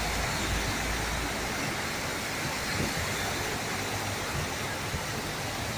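Heavy rain pouring and floodwater rushing along a street, a steady hiss with no let-up.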